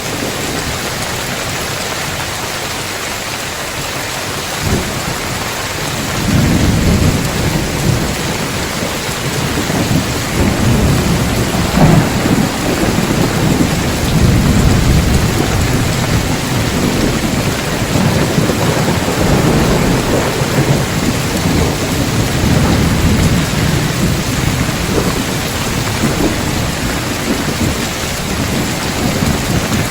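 Heavy rain on roof tiles, a steady hiss. About six seconds in a long rolling thunder rumble builds up and keeps rolling, loudest around twelve seconds in.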